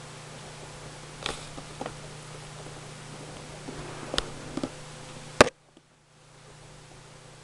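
A few soft taps and knocks over a steady low hum. Near the end comes one sharp, loud click, after which the sound drops out for about half a second.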